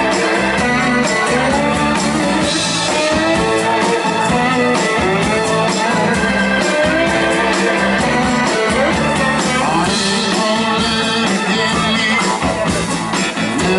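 Live blues-rock band playing a song, with guitar.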